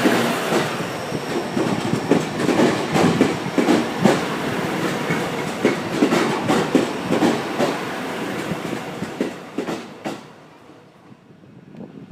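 GV-E400-series diesel-electric railcar set rolling past, its wheels clattering over rail joints and points in an irregular run of clicks. The sound drops away sharply about ten seconds in.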